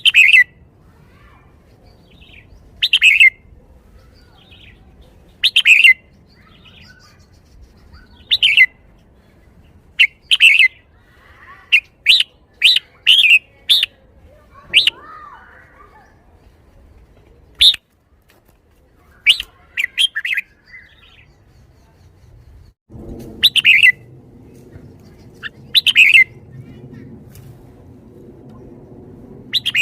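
Red-whiskered bulbul singing loud, short, sweeping phrases every couple of seconds, in the song style Thai keepers call "bottle-shaking". A low steady hum joins about two-thirds of the way through.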